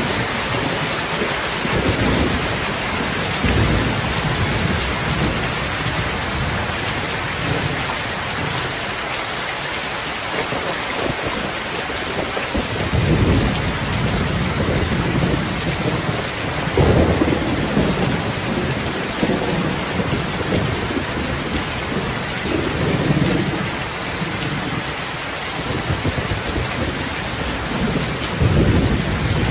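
Heavy rain falling steadily, with low rolling rumbles of thunder swelling and fading several times, loudest about 13, 17, 23 and 28 seconds in.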